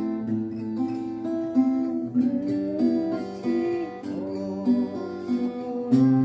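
Acoustic guitar playing a waltz-time accompaniment in the key of C, strummed chords over plucked bass notes, with a new chord and bass note about six seconds in.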